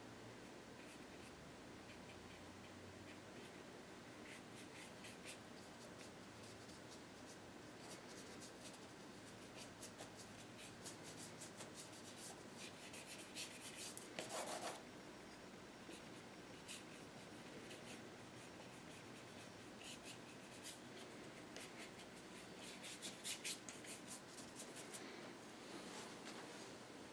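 Paintbrush loaded with acrylic paint dabbing and stroking on the painting surface in short, quick scratchy strokes, coming in bunches, with one louder brief rasp about halfway through.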